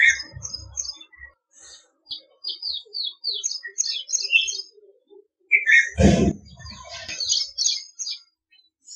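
Small birds chirping in many quick, short, high notes, with a brief loud burst of noise about six seconds in.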